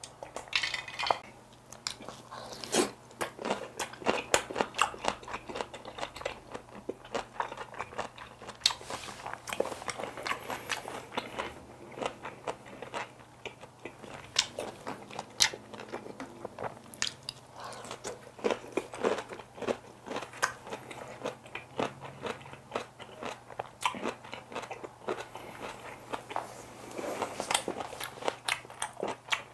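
Close-miked chewing of napa cabbage kimchi wraps: a continuous run of crunching with many sharp mouth clicks.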